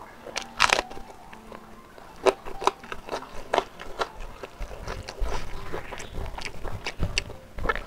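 Close-miked biting and chewing of a raw green chili: a series of sharp crunches, the loudest about a second in, with softer chewing crunches after it.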